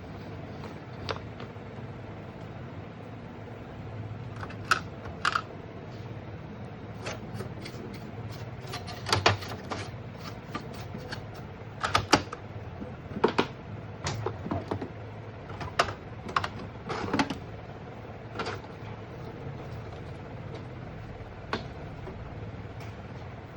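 Irregular sharp plastic clicks and taps from handling an Epson ink tank printer's parts, in clusters with gaps, over a steady low hum.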